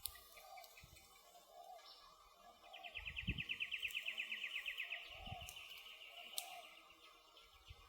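Forest ambience with a songbird's rapid, even trill lasting about three seconds in the middle. A few sharp crackles from the burning campfire wood come through as well.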